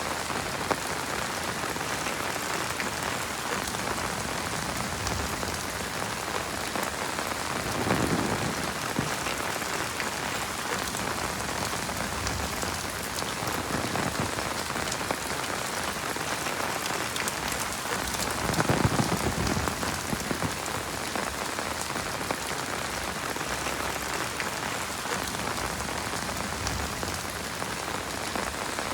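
Heavy rain falling steadily in a dense hiss, with two brief, louder and deeper surges about a third of the way in and again past the halfway mark.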